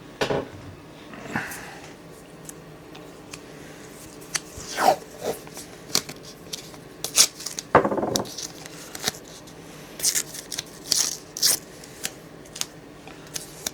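Adhesive tape being pulled off a roll, torn and pressed onto a knife to protect it for sharpening: a run of short irregular rips and clicks, the longest rasp about eight seconds in.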